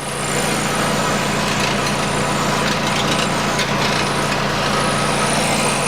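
Nissan Qashqai 2.0 petrol engine idling steadily, heard from under the car at the exhaust: a low hum under a dense buzzing rattle from the rusted-through heat shield on the exhaust resonator.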